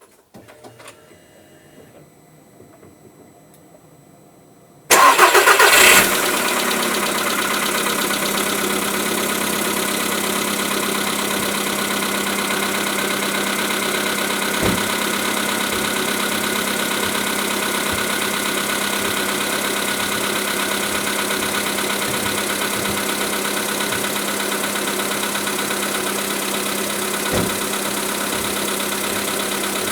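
Volkswagen Polo sedan petrol engine cranking and catching about five seconds in, after a few faint clicks, then idling steadily with a couple of short thumps. The owner reports a knock from this engine 1000 km after a piston group replacement.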